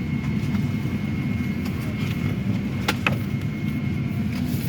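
Cabin noise of a Boeing 757-300 airliner parked at the gate: a steady low rumble with a faint steady high whine, and a couple of sharp clicks about three seconds in.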